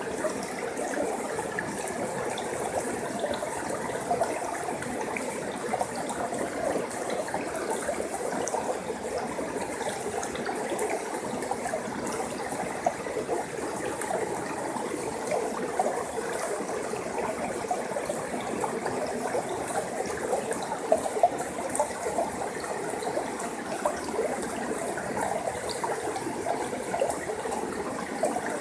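Stream water flowing steadily, a continuous babbling trickle with many small splashes.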